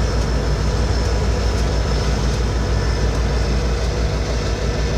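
A vehicle engine running steadily, a constant low sound with no change in pitch.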